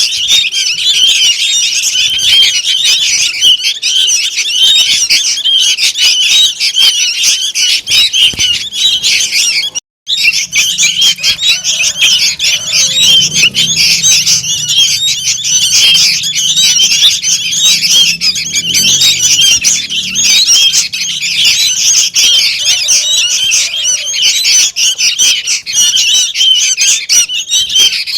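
Sooty-headed bulbul chicks calling noisily without pause, a dense chatter of short, high, squawky calls. The sound cuts out for a moment about ten seconds in, then resumes.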